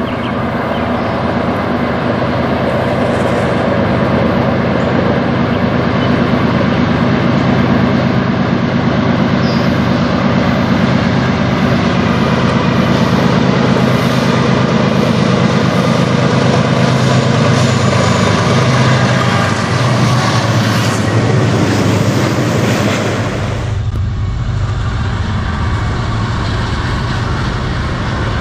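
Two diesel-electric freight locomotives running under load as they pass close by, a steady engine drone that builds and holds. About 23 seconds in, the sound changes abruptly to freight cars rolling along the rails.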